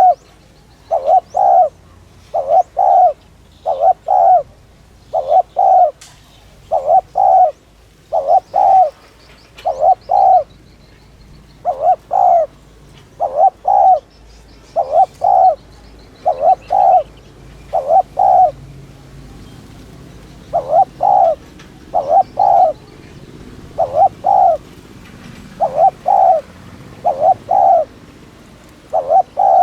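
Spotted dove cooing in the rapid 'thúc' style, as dove keepers call it: short paired coos repeated quickly over and over, with a brief pause about two-thirds of the way through. Faint chirps of other birds sound behind it.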